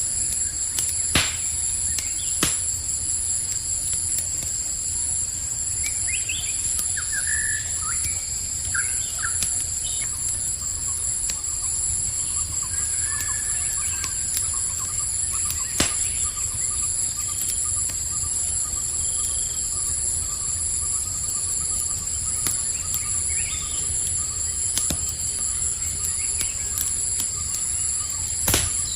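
Campfire crackling with a few sharp pops, over a steady chorus of crickets chirring. A few short bird chirps come and go.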